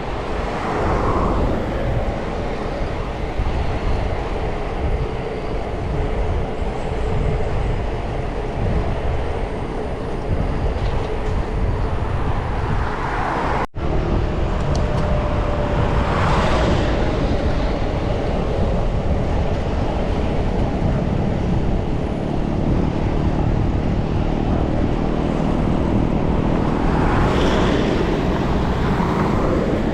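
Wind rushing over the microphone of a camera carried on a moving bike, with road traffic as several vehicles pass one after another, each swelling and fading over a couple of seconds. The sound cuts out for an instant just before halfway.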